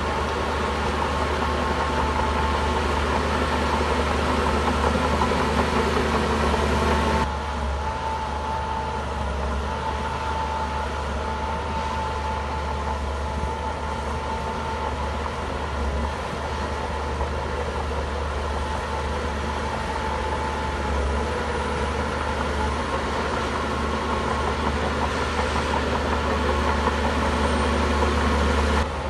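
Shantui bulldozer's diesel engine running steadily. The sound changes abruptly about seven seconds in.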